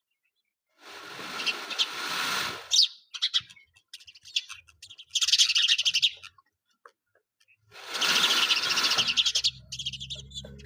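Peacock making three loud bursts of very fast rattling, each one to two seconds long, with short pauses between.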